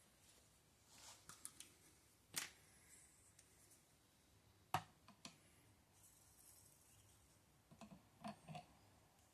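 A handful of faint clicks and taps from handling a model steam engine's spirit burner and a bottle of methylated spirits, spaced out irregularly, with a small cluster near the end.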